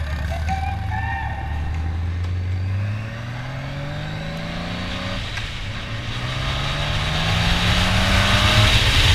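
Honda F6B's flat-six engine accelerating out of a bend, its pitch climbing steadily, dropping sharply with an upshift about five seconds in, then climbing again. Wind rush grows louder toward the end as the bike picks up speed.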